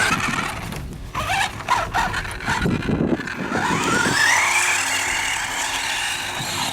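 Electric radio-controlled short-course truck, its motor whining as it is throttled. There are several knocks and short whines about one to three seconds in, then the motor winds up in a long rising whine from about three and a half seconds in and holds high.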